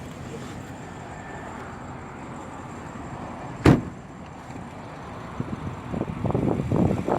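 The door of a BMW 650i Gran Coupe shutting with a single solid thud about three and a half seconds in, over a steady low background. A run of irregular low knocks and rumbles follows near the end.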